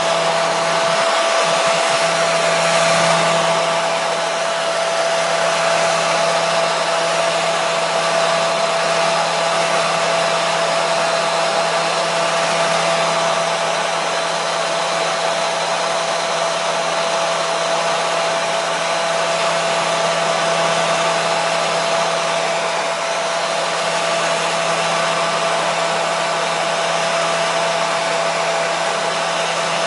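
Hair dryer running steadily: an even rush of air with a constant motor whine, used as white noise to soothe a colicky baby to sleep.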